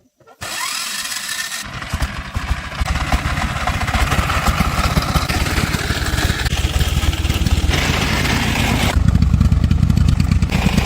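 A vehicle engine is cranked and starts: a short whirring onset, then it catches at under two seconds and runs with a steady, growing rumble that gets heavier near the end.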